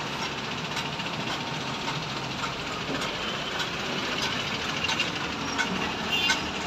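Steady outdoor din of heavy vehicles and machinery at a flyover construction site, with a few faint scattered clicks and no single engine standing out.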